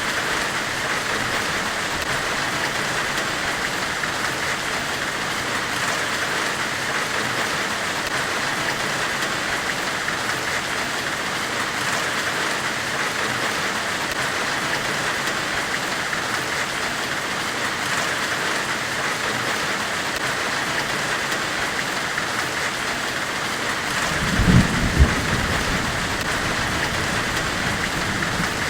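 Steady forge-weld white-noise hiss, even and unbroken, strongest in the upper middle range. A short low rumble with two swells comes about three-quarters of the way through.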